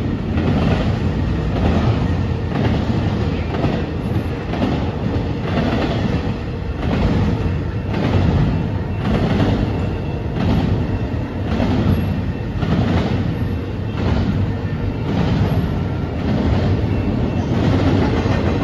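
Freight train cars rolling through a grade crossing, their wheels clacking over rail joints about once a second under a steady rumble.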